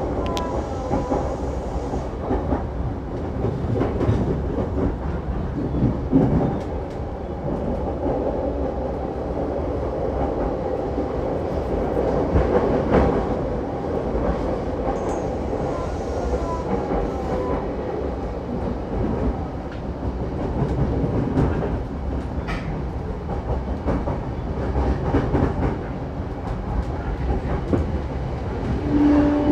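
A JR Saikyo Line electric commuter train running at speed between stations: a steady rumble of wheels on the rails with scattered clicks over rail joints.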